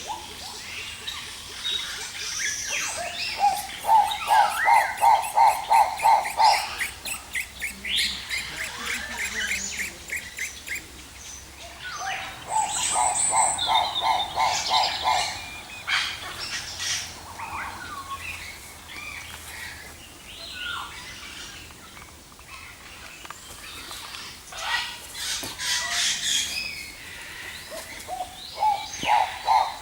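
A mix of birds calling: many short chirps and squeaks, with three runs of a low note repeated about three times a second.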